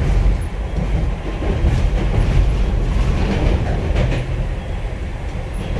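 A Hankai Tramway streetcar running, heard inside the car: a heavy, steady low rumble of wheels and running gear, with scattered clacks and knocks from the track.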